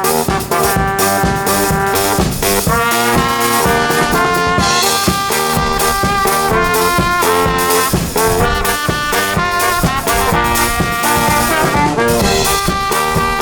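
Live brass band playing an upbeat tune, horns carrying the melody over a steady drum beat.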